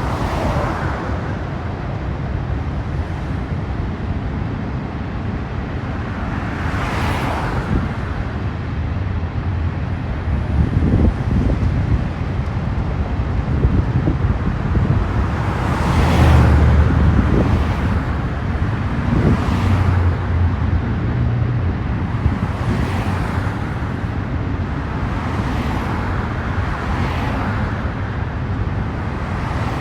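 Intermodal freight train's cars rolling past: a steady low rumble of wheels on rail, with a louder clatter swelling and fading every few seconds.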